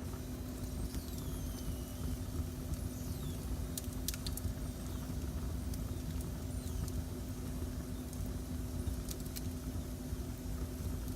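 Wood fire burning in a fireplace: a steady low rumble with a constant hum, broken by a few sharp crackles and pops, two about four seconds in and two more about nine seconds in.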